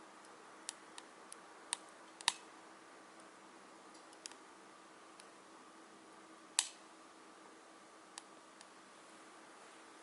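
Wood fire crackling in a Solo Stove Titan stove: scattered, irregular sharp pops over a faint steady hiss, the loudest two about two seconds in and past six seconds in.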